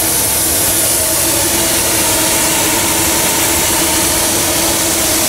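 Steady roaring hiss of steam escaping from a fired fire-tube steam boiler under pressure, with a faint steady tone underneath.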